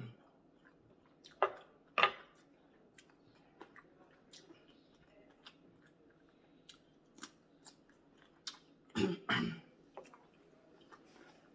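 Close-miked chewing of food, wet mouth clicks and small crunches, with a few louder bursts about a second and a half in, at two seconds, and around nine seconds.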